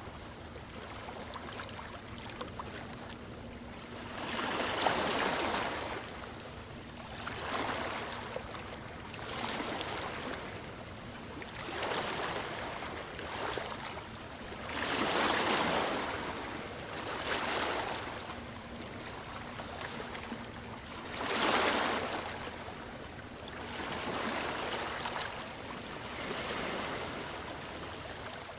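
Ocean surf: waves breaking and washing in, the rushing noise swelling and fading every few seconds, with three bigger waves standing out.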